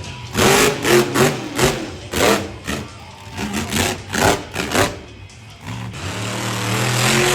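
Monster truck engine revving in a run of short, sharp throttle blips, then held at a steadier, building rev near the end.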